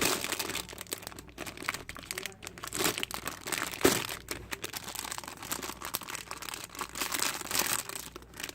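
Crinkly packaging being handled and unwrapped close to the microphone: irregular crackling and rustling, with a few louder crackles partway through.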